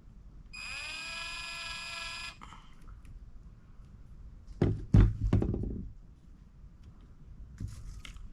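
A high pitched tone that slides up briefly and then holds steady for about two seconds. A few seconds later comes a loud double thunk with a short rumble.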